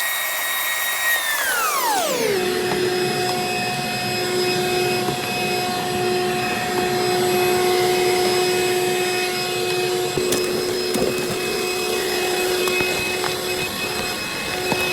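Vacuum cleaner motor running with a steady whine. Its pitch falls sharply over the first two seconds or so, then holds steady.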